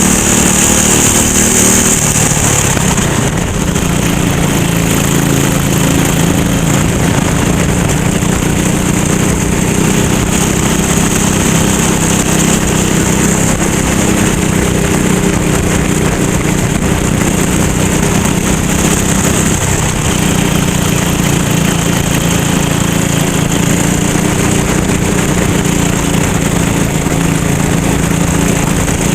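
Racing kart's small single-cylinder engine running hard and steadily, its pitch dipping briefly about three seconds in before climbing back.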